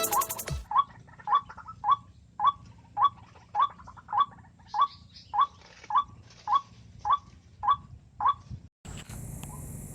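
White-breasted waterhen (ruak-ruak) calling: one short note repeated about twice a second, some fourteen times. Near the end it cuts to a steady background hiss with fainter repeats of the same note.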